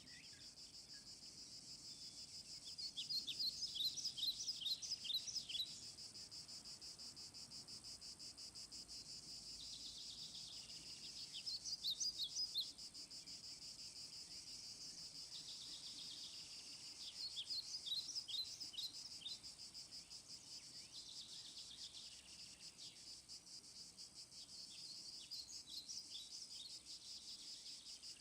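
Steady, fast-pulsing chorus of crickets, with short runs of quick bird chirps about every six to seven seconds, louder than the crickets.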